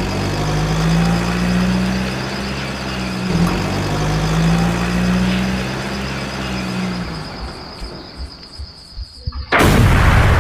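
A motor running steadily with a low hum and a thin high whine, fading out about seven seconds in; near the end a sudden loud blast of noise cuts in.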